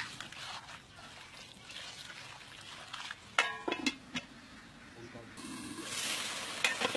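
Food begins sizzling in hot oil about two-thirds of the way in, a steady hiss that keeps going. Before it there are faint kitchen noises and a brief voice in the middle.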